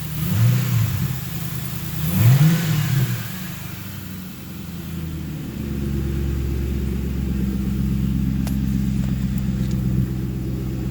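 1968 truck's engine through a muffler-deleted true dual exhaust, catalytic converters still in place, blipped twice in the first three seconds, then settling into a steady rumbling run from about halfway through.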